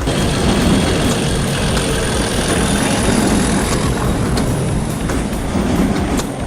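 A train running on rails: a steady rumble with scattered clicks and a thin high squeal above it.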